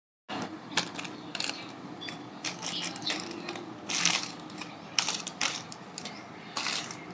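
Irregular crackling and clicking of plastic snack packets being handled, with several sharper crinkles spread through.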